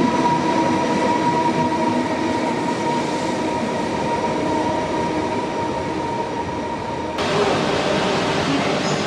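A train running at a station, a steady rumble with a steady high whine through it. About seven seconds in the sound changes abruptly and becomes brighter.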